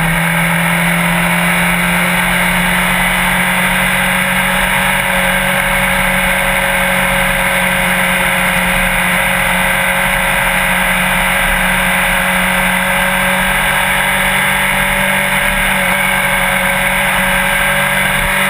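Motorcycle engine running steadily at speed, its pitch rising slightly over the first few seconds and then holding, with a constant rushing noise.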